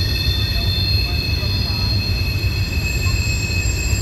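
A train rolling past with its wheels squealing steadily on the rails, several high squeal tones held over a low, heavy rumble.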